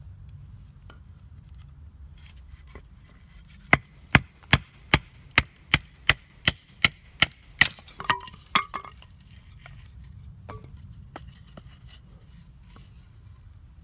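Firewood being chopped: a run of about a dozen sharp, even strikes, two or three a second, then a few scattered knocks.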